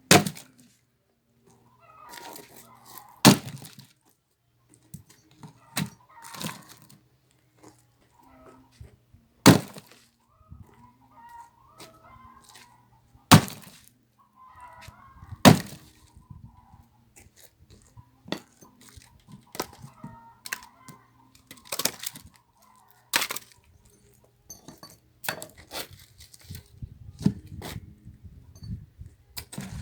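Axe blows splitting firewood: a series of sharp cracking strikes a few seconds apart, some loud and some softer.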